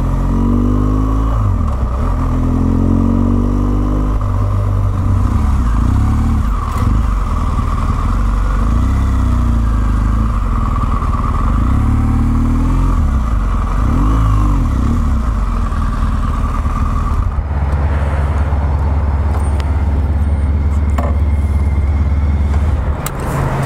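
BMW R1200GS Adventure's flat-twin boxer engine running as the motorcycle is ridden, its pitch rising and falling with throttle and gear changes. For about the last six seconds it settles into a steady low note.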